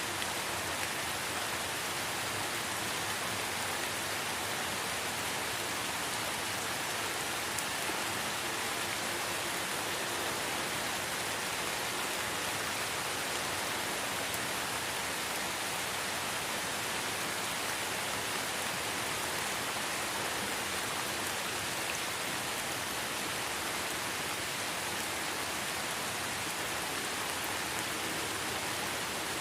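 Steady light rain falling in a forest, an even patter that holds level throughout.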